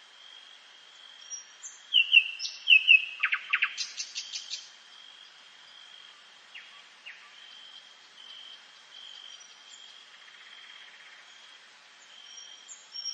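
A songbird sings one loud phrase of quick, falling notes ending in a rapid flourish about two seconds in, over a faint, high, steady trill that breaks up every half second or so.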